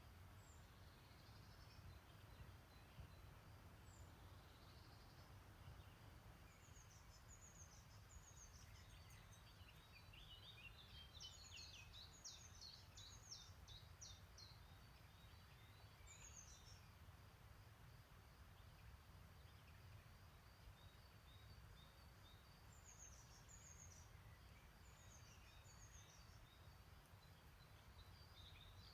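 Faint songbirds singing in quick high chirping phrases, with several bursts through the middle and again near the end, over a steady low rumble.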